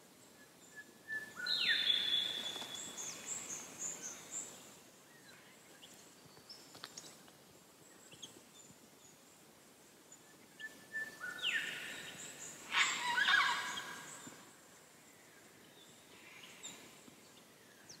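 Forest birds calling: a whistled call that jumps up to a high note about a second in, followed by a few shorter notes, then another run of calls from about eleven to fourteen seconds in, with faint background hiss between them.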